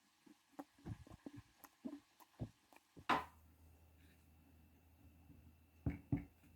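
Kitchen preparation handling sounds: a run of light clicks and taps, a louder knock about three seconds in followed by a faint low hum, and two more knocks near the end.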